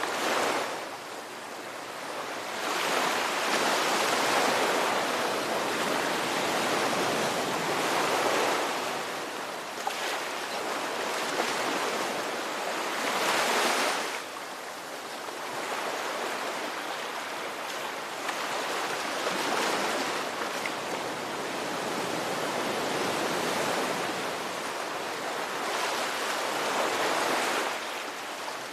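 Ocean waves breaking and washing in, a steady rush of surf that swells and eases in long surges every few seconds, about five in all.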